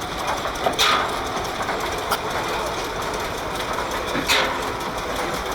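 Vintage stationary engines running, with three sharp cracks at uneven gaps over a steady mechanical din.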